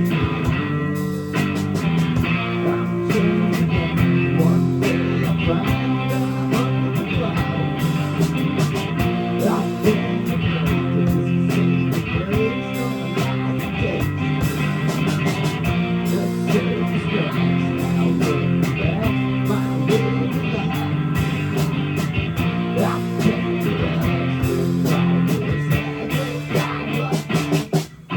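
Live rock band playing a guitar-led instrumental passage without vocals, with a brief drop in volume just before the end.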